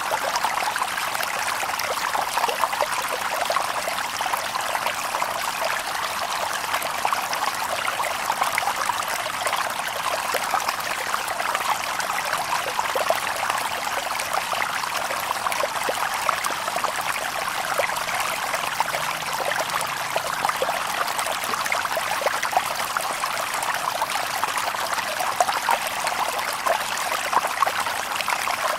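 Shallow river water babbling and trickling over stones, a steady dense splashing with no birds.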